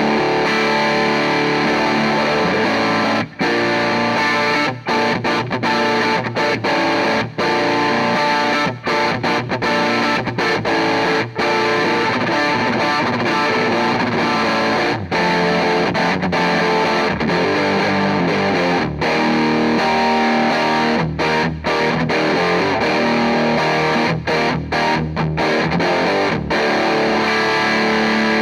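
Electric guitar played through an EarthQuaker Devices White Light Legacy overdrive pedal at high gain with its COMP switch in the plus position, into a Hughes & Kettner Tubemeister valve amp: heavily distorted riffs and chords with many short breaks between phrases.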